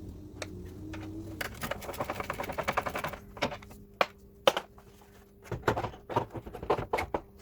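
Hand work on a car's engine bay during thermo fan removal: a small motor runs steadily and stops about a second and a half in, then a fast run of clicks, then scattered clicks and knocks.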